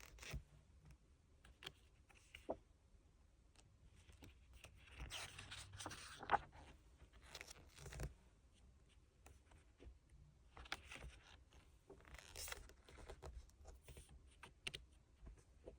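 Quiet rustling and crinkling of paper and plastic album packaging being handled, with a few light taps and clicks and two louder stretches of rustling.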